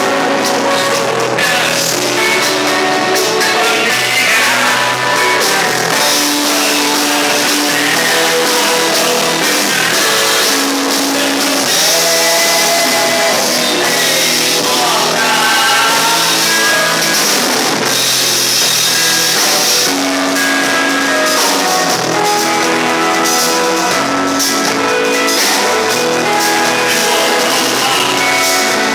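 Rock band playing a song, with drum kit, guitar and singing, at a loud, even level.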